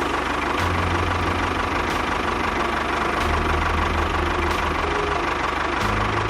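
An engine running steadily with a knocking chug, with faint clicks about every second and a quarter.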